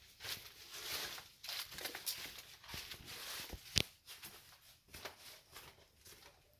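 Irregular footsteps and scuffing on a dirt and rock trail, with rustling, and one sharp knock a little under four seconds in.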